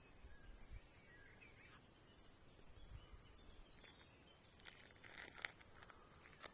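Faint outdoor quiet with a few distant bird chirps in the first two seconds and a faint steady high tone underneath; a short run of rustling clicks comes about five seconds in.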